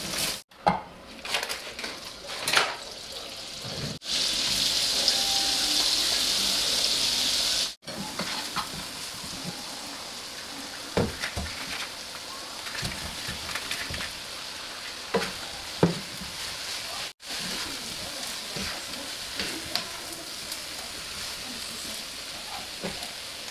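Chicken wings frying in hot oil in a pan, a steady sizzle that is loudest for a few seconds about four seconds in. After that the sizzle is quieter, with occasional short taps and scrapes as the fried wings are stirred in the pan with a wooden spatula.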